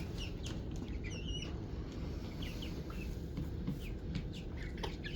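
Young chickens peeping, many short high chirps scattered irregularly, over a steady low background hum.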